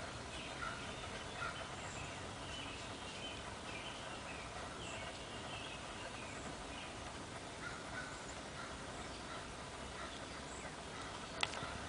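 Faint bird calls: short chirps and chatter repeating over a steady outdoor hiss, with one sharp click near the end.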